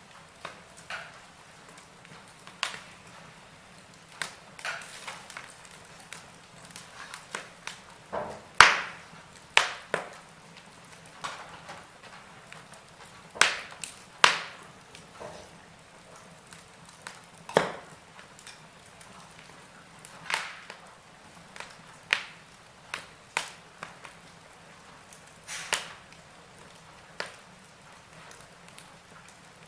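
Fire crackling in a fireplace: irregular sharp pops and snaps over a faint steady hiss, with the loudest pops about eight and a half and fourteen seconds in.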